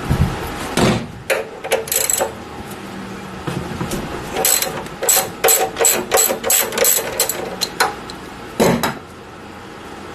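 Metal hand tools clinking and clanking: a run of sharp, ringing metallic clicks and taps, densest between about four and eight seconds in, over a steady background hum.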